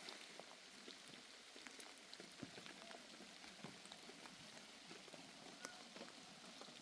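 Faint light rain falling: a soft steady hiss with scattered drop ticks.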